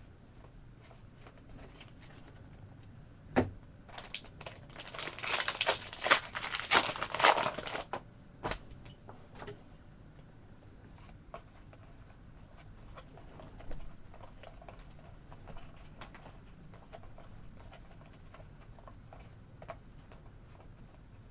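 Foil trading-card pack wrapper being torn open and crinkled for about three seconds, after a sharp click a little before. Soft clicks and rustles of cards being handled follow.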